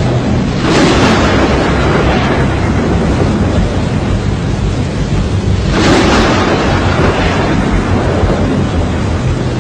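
Violent storm wind with rain, a steady rumbling rush with two strong surges, one about a second in and another about six seconds in.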